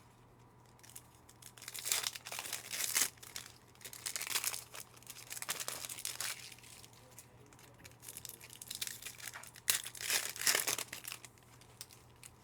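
Foil trading-card pack wrapper crinkling and tearing as a pack is ripped open and handled, in several rustling bursts.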